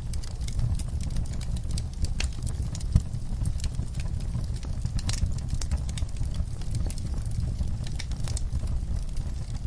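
Wood fire in a fireplace crackling: irregular sharp pops and snaps over a steady low rumble of burning logs, with one louder pop about three seconds in.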